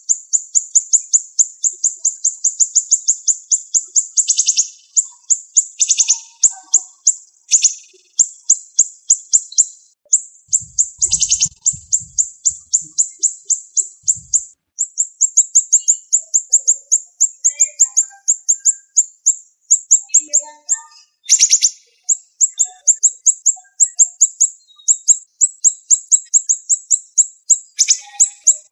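Siri-siri songbird calling in a rapid, dense run of sharp, high chirps, about five a second, with short breaks. A few louder, harsher notes punctuate the run.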